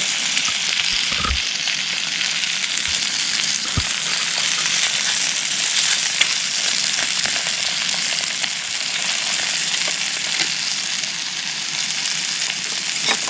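Fish and sausage sizzling steadily in a frying pan, with many small crackles and pops from the hot fat.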